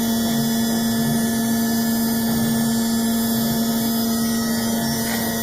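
Steady machine hum with one strong low tone and fainter higher tones over it, unchanging throughout, from the running CNC router setup.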